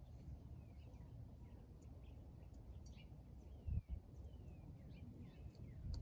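Small songbirds chirping faintly with short, downward-sliding notes scattered throughout, over a steady low outdoor rumble; a brief low thump a little before four seconds in.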